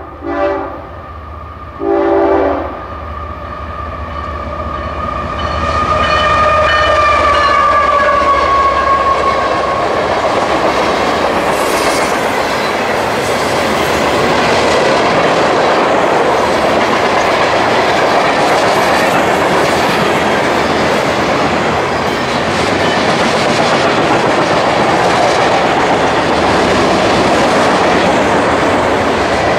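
Train horn giving a few short blasts, then a long blast that drops in pitch as the locomotive passes. Then the train runs by with a steady rumble of wheels clattering over the rails.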